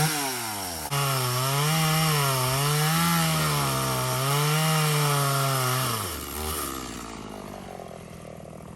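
Chainsaw cutting into a cherry tree, its engine pitch rising and falling as the saw works under load. About six seconds in it drops back to a low idle.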